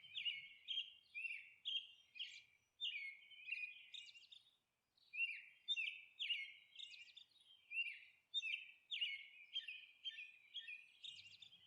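Faint bird chirping: short, quick chirps that sweep downward, several a second, with a brief pause about four seconds in.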